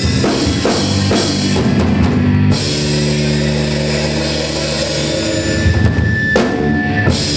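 Live rock band near the end of a song: drums and cymbals hit hard at first, then a chord is held and left ringing, with another loud drum hit near the end.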